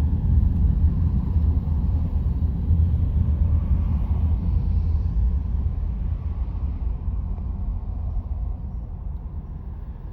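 Car driving on a city road, heard as a steady low rumble of road and engine noise inside the cabin. It eases off gradually over the second half.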